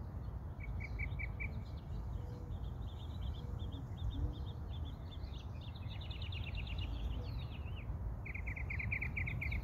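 Small songbirds chirping and trilling: a short run of four even notes about a second in, scattered high chirps through the middle, and a fast, even trill near the end, over a steady low background rumble.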